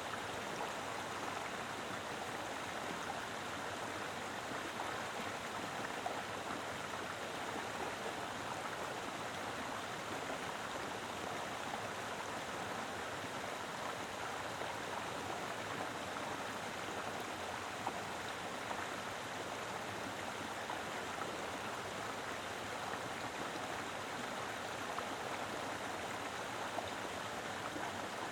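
Mountain river flowing over rocks: a steady, full rush of water with a few small splashes.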